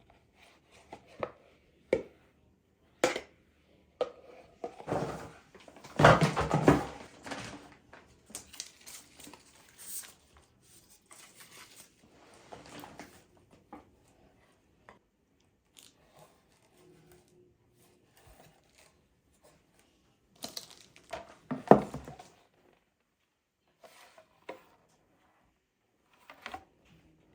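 Handling sounds: scattered clicks and knocks, with two louder stretches of rustling and tearing, like packaging being torn open and handled.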